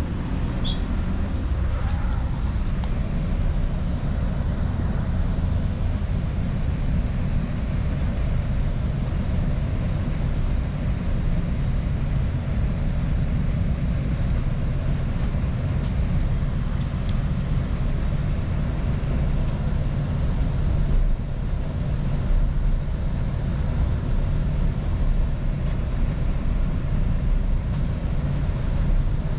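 Diesel-hauled Northstar commuter train running, a steady low rumble with a few faint clicks.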